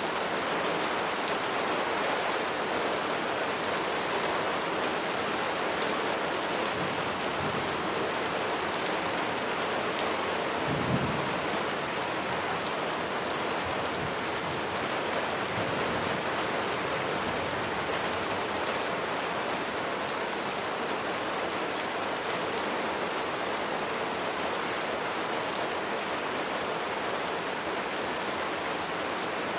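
Steady heavy rain falling on a surface, with individual drops ticking through the hiss. A short low rumble of thunder comes about a third of the way in, with fainter rumbles around it.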